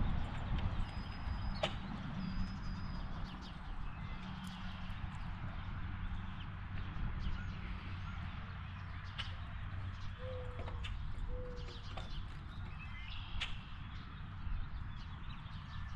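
Scattered short bird calls and a few faint clicks over a steady low rumble.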